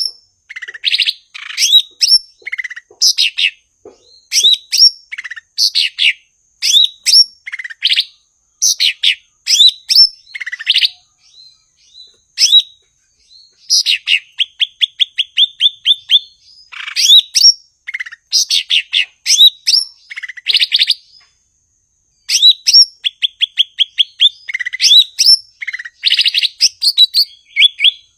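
Cucak ijo (green leafbird, Chloropsis) singing energetically: a fast, varied run of chirps, slurred whistles and quick repeated-note trills, with a brief pause near the end.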